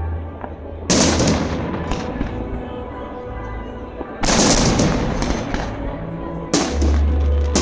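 Aerial fireworks shells bursting: three loud booms, each trailing off into crackling, over background music.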